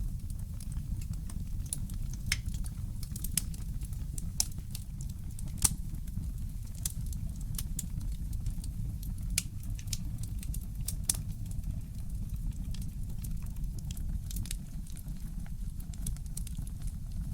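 Fireplace crackling: irregular sharp pops and snaps, a few a second, over a steady low rumble.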